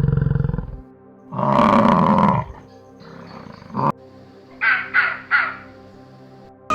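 A series of different animal calls. A low buzzing sound stops within the first second, a loud call of about a second follows, and three short calls come close together about five seconds in.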